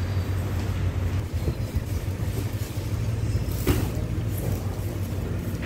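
Steady low rumble of a diesel train idling at the platform, with a single sharp knock a little past the middle.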